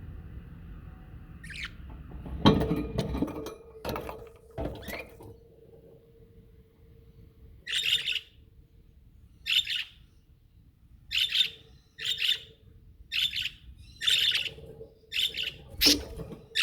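Pet budgerigars calling, a run of short chirps about one a second through the second half. Before that come a few sharp knocks and rattles, the loudest about two and a half seconds in.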